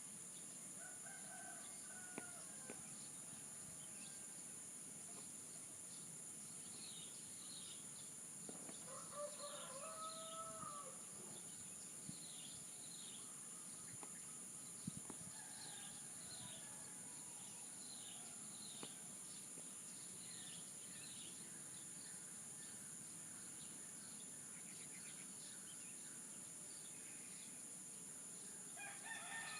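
Roosters crowing, the clearest crow about nine seconds in and another beginning near the end, with fainter crows between. A small bird repeats short falling chirps for much of the time, over a steady high insect drone.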